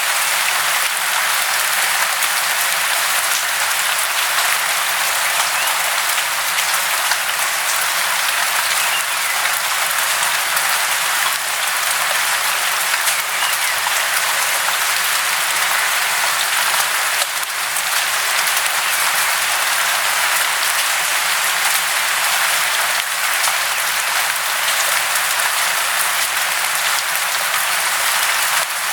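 Steady, even hiss of falling water, high and without any deep rumble.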